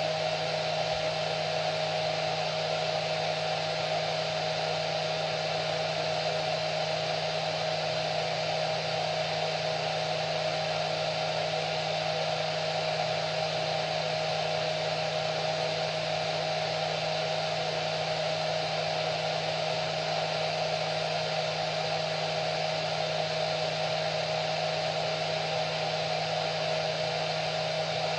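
Hair dryer running steadily: a constant rush of blown air with a steady motor whine held on one pitch and a low hum underneath.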